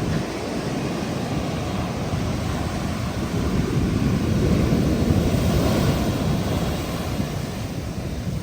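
Large ocean waves breaking and surging up the beach at a full-moon high tide, a steady rushing that swells about four to six seconds in, with wind buffeting the microphone.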